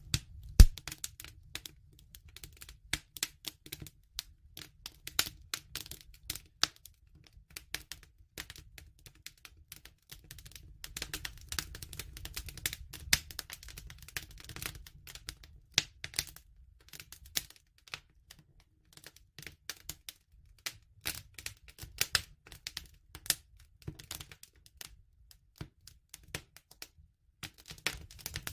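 Wood fire crackling: a dense, irregular run of sharp pops and snaps over a low steady rumble, with one loud pop just over half a second in.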